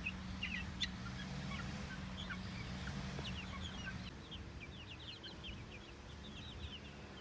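A flock of eight-week-old chickens peeping and clucking, with short high chirps that come thicker in the second half. A low steady hum runs underneath.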